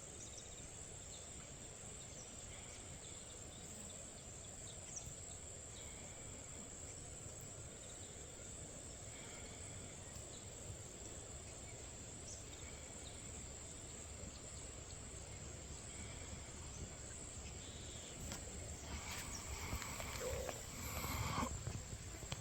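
Faint outdoor ambience with a steady high-pitched chirring of insects, like crickets, running throughout. A few louder, irregular sounds come near the end.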